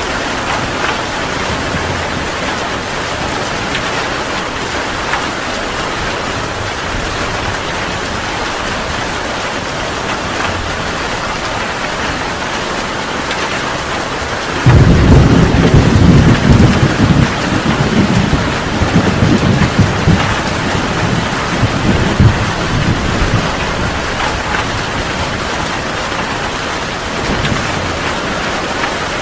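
Heavy rain falling steadily. About halfway through, a loud clap of thunder breaks in and rumbles on for several seconds in a few fading rolls.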